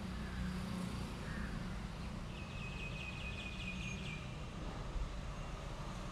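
A bird gives a quick rattling call of rapid, closely spaced notes lasting about two seconds, over a steady low rumble.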